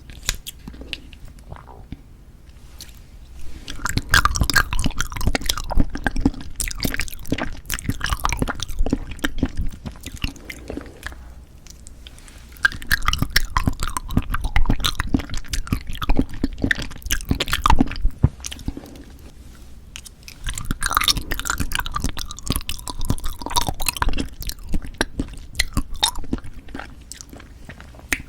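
Close-miked mouth sounds of someone chewing cheonhyehyang citrus cup jelly, in three long bouts of dense clicking with quieter pauses between.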